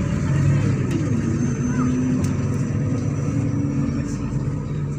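MAZ-103 city bus running along its route: a steady low engine and drivetrain drone. About a second in, one tone slides down in pitch as the revs drop.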